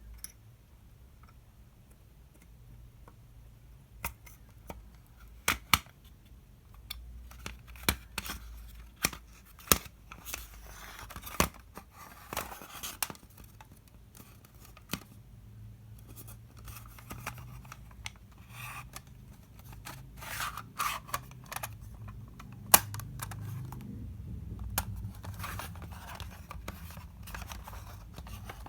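Unboxing handling noise: after a few quiet seconds, irregular sharp clicks and snaps mixed with scratchy rustling and tearing, as packaging and parts are handled and opened.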